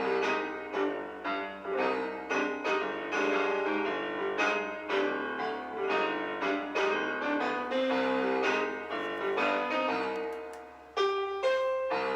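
Piano music, notes struck in quick succession; it drops away briefly about eleven seconds in and then resumes.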